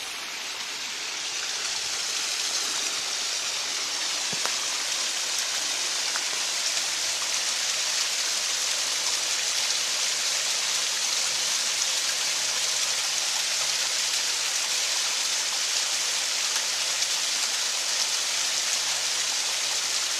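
Water pouring over a small waterfall: a steady rushing splash that grows a little louder over the first couple of seconds, then holds even.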